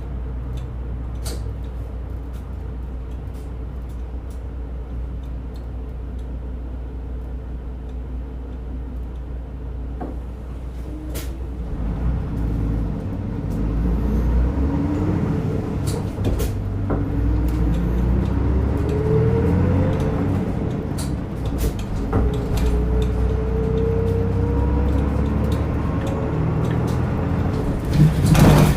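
Diesel route bus heard from inside the cabin: the engine runs with a steady low hum, then from about twelve seconds in grows louder, its pitch rising several times in turn as the bus speeds up through the gears. Scattered clicks and rattles from the body, and a loud knock near the end.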